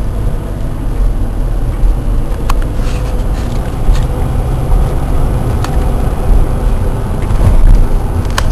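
Steady low rumble of a car's road and engine noise heard from inside the cabin while driving, with a couple of brief faint clicks.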